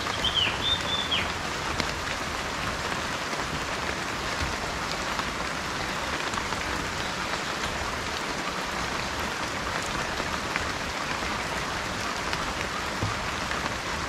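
Steady rain falling, with many separate drops ticking through it. A bird gives a brief call of a few high notes right at the start.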